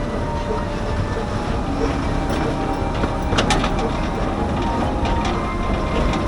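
Akasawa forest railway's narrow-gauge train running along the track: a steady rumble with a few sharp clicks of the wheels over the rails, the strongest about three and a half seconds in.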